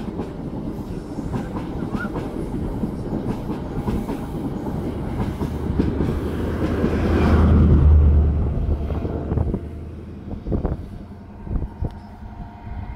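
A diesel High Speed Train running beneath a bridge: a steady rumble and clickety-clack of the coaches. A deep engine drone swells to the loudest point about seven to eight seconds in as a diesel power car passes under, then fades.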